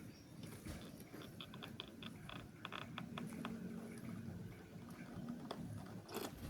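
Faint, quick, irregular clicking and tapping over a couple of seconds in a quiet room.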